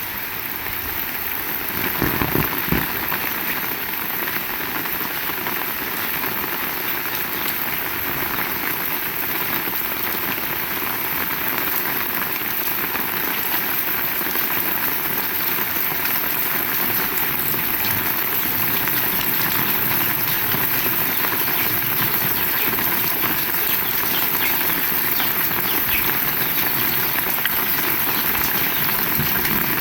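Heavy rain falling steadily, a dense patter of drops hitting surfaces. About two seconds in there is a brief, louder rush.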